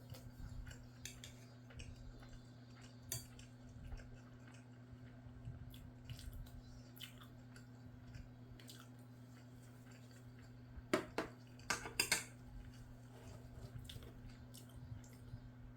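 Eating utensil clinking and scraping against a bowl, with quiet chewing, as rice with scrambled egg is eaten; a quick run of louder clinks comes about eleven to twelve seconds in. A steady low hum runs underneath.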